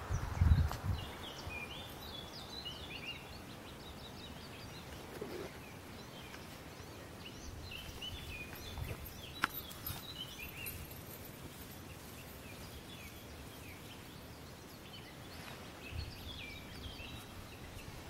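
A songbird singing three short phrases of quick notes, a few seconds apart. A low thump just after the start, the loudest sound, and a sharp click about halfway through.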